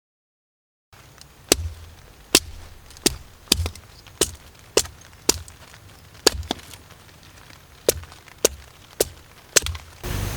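Steady chopping: a dozen or so sharp strikes, each with a dull thud, coming about every half second to second and starting about a second in.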